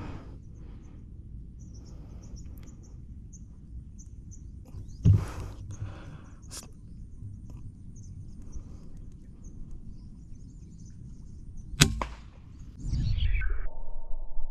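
Two sharp shots from a hunting gun, about seven seconds apart, with faint high bird chirps between them.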